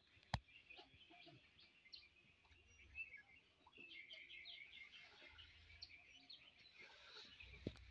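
Faint birds chirping in the background: many short, high chirps from several small birds. A sharp click sounds about half a second in, and another near the end.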